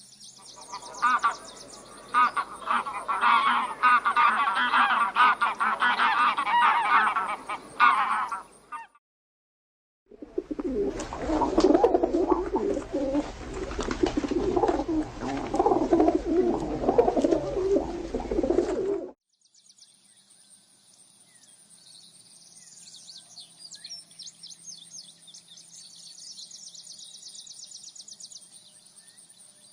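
Animal calls in three separate clips: a dense, loud stretch of bird-like calls, a short silence, a lower, noisier run of calls that cuts off suddenly, then faint high-pitched chirping.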